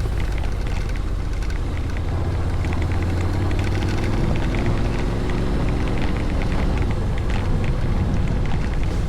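Honda Forza 750 maxi-scooter's parallel-twin engine running under way, with wind noise rushing over the microphone; the engine note rises about four seconds in as it accelerates.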